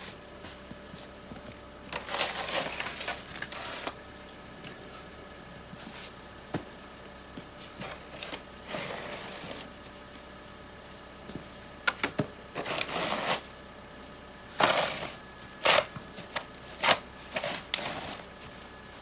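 Snow crunching and scraping in separate bursts of a second or two, with a few sharp knocks in between, mostly in the second half.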